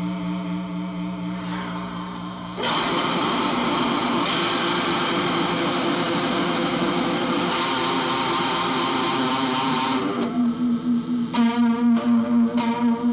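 Electric guitar played through distortion and effects. A held note fades for the first two and a half seconds, then a loud distorted wall of sound comes in suddenly. About ten seconds in it breaks into shorter, separately struck notes.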